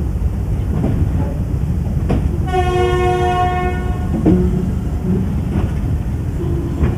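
Moving passenger train's steady rumble, with clicking of the wheels over the rail joints; about two and a half seconds in, a train horn sounds once, a single held note lasting about a second and a half.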